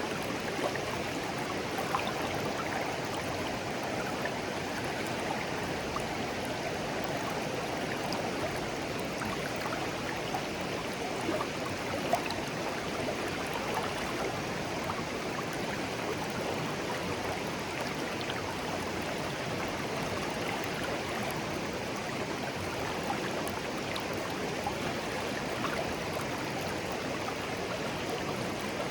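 Shallow stream flowing and babbling steadily over stones, with small irregular splashes and trickles.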